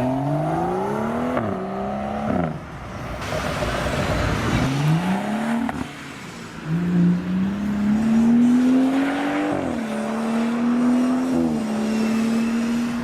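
BMW M135i/M140i/M235i turbocharged inline-six pulling hard. The engine note climbs in pitch and drops several times as the car shifts up, and in the second half it climbs more slowly before settling to a steadier pitch.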